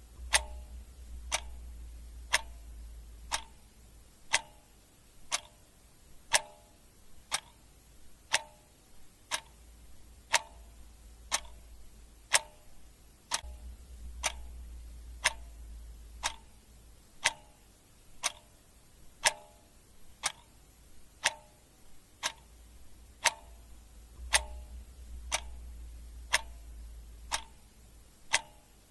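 Clock ticking steadily, one sharp tick a second. A faint low rumble swells underneath three times.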